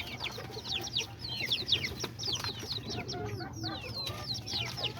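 Many chicks peeping together: a dense, continuous chorus of short, high, falling peeps, with lower chicken clucks underneath.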